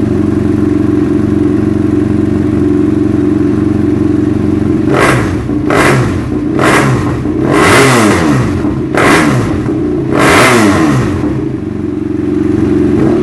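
BMW F800R parallel-twin engine with a Noriyoshi slip-on exhaust idling steadily, then revved in about six quick throttle blips, the last few longer, before settling back to idle.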